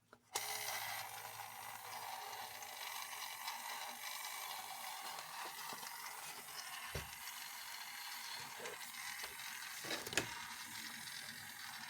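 Small electric motor and plastic gear train of an old battery-powered robot toy running with a steady whirr and a few light knocks, going slowly, which the owner suspects is its wires touching the gears.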